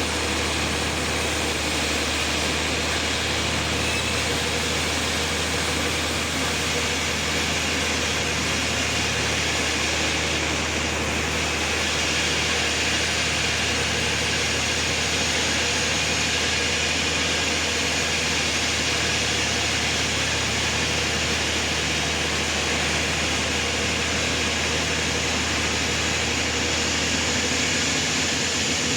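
Sawmill machinery running steadily: a constant low hum under an even hiss, with no change or distinct strikes.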